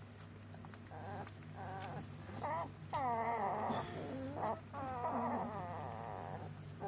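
Border Collie puppies whimpering and whining: high, wavering cries starting about a second in, several overlapping in the middle.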